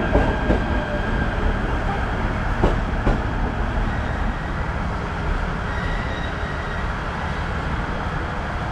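Shinano Railway SR1 series electric train moving past a station platform: steady running noise, with a few paired wheel clicks over rail joints in the first few seconds.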